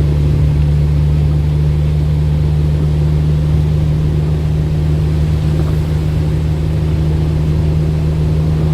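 Steady low droning hum, constant in pitch, with a few faint ticks over it.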